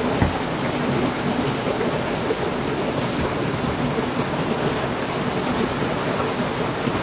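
Heavy rain falling steadily. A brief low thump sounds just after the start.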